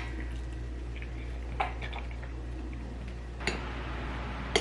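Quiet eating sounds: three soft clicks, spread a second or two apart, over a steady low hum.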